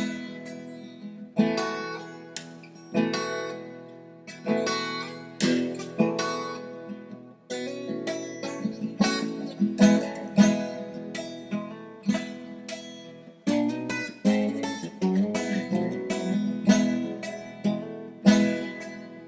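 Acoustic guitar playing an instrumental passage between sung verses, with no voice. Chords are struck about every second and a half and left to ring, and quicker picked notes come in after about thirteen seconds.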